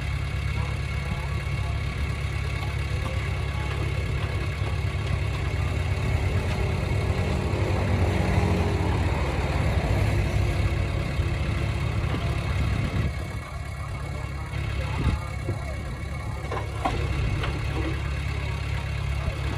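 Heavy construction machinery's diesel engine running steadily with a deep rumble, working harder and louder through the middle, easing briefly a little past halfway, with a few sharp knocks later on.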